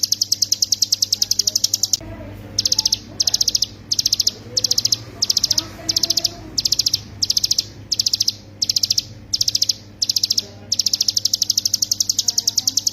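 Ciblek gunung (hill prinia) singing its rapid, drilling 'ngebren' trill of fast repeated high notes. It breaks into short bursts a little under a second apart for most of the stretch, then runs on continuously again near the end.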